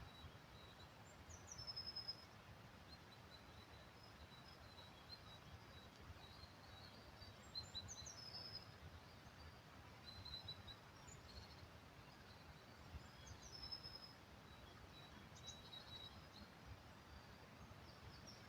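Faint woodland birdsong: scattered short, high chirps and calls from several birds, including a few quick falling whistles, over a quiet steady background hiss.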